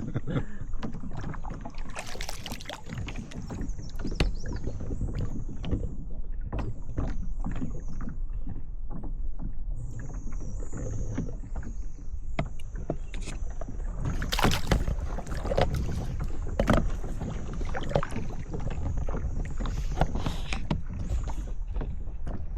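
Kayak paddling: the paddle dipping and splashing with irregular knocks against the boat, over a steady low rumble on the phone's microphone.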